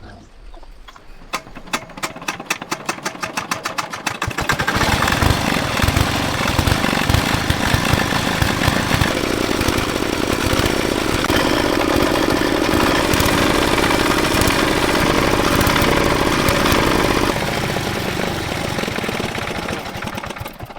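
Tractor engine running: a quick, even knocking at first, then it speeds up at about four seconds in to a loud, steady run, easing down again near the end.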